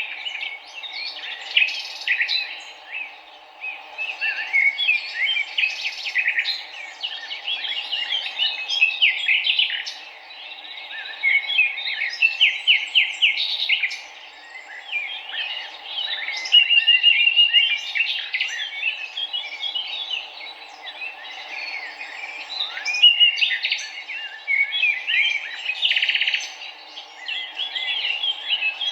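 A chorus of many small birds chirping and singing at once, the calls overlapping, with a short rapid trill a little past halfway through.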